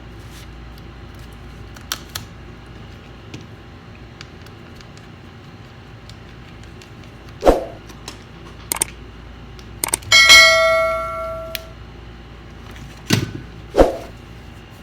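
A single bell-like ding about ten seconds in, fading over about a second and a half, amid scattered knocks and clicks of objects being handled.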